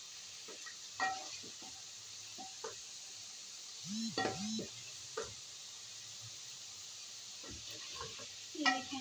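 Chicken frying (bhuna) in oil in an aluminium pot, a steady sizzle, with a spatula stirring and scraping against the pot in scattered knocks. The chicken is being fried until the oil separates. About four seconds in, a brief low voice-like sound comes twice.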